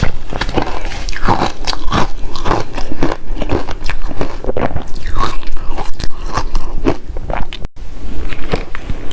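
Close-up biting and chewing of frozen matcha ice: a steady run of loud, sharp crunches and cracks as the ice breaks between the teeth, with a brief break near the end.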